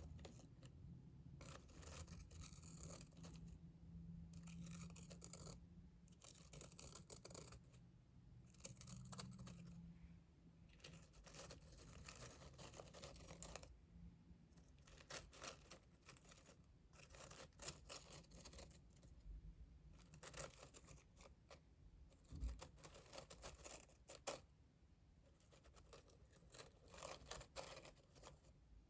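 Quiet close-up ASMR trigger sounds: short runs of soft, quick scratchy strokes with brief pauses between them.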